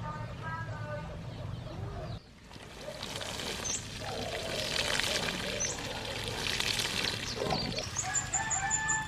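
Farmyard chickens, with a rooster crowing, amid small birds chirping; the sound changes abruptly about two seconds in.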